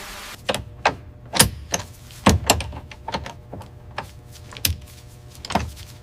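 A steady hiss cuts off just after the start, followed by an irregular series of about a dozen sharp clicks and knocks from hard objects being handled.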